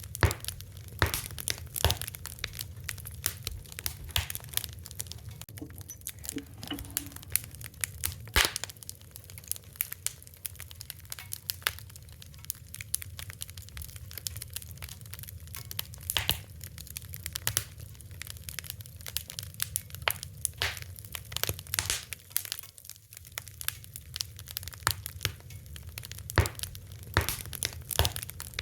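Fire crackling: irregular sharp pops and snaps, a few louder than the rest, over a low steady rumble.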